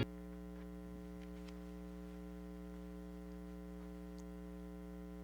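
Steady electrical mains hum with a buzzy stack of even overtones, unchanging throughout.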